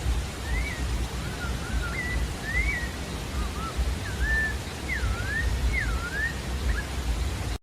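Pale-breasted thrush (sabiá-da-várzea) singing a phrase of clear whistled notes that slide up and down in pitch, with a steady low rumble and hiss beneath. The song stops about a second before the end.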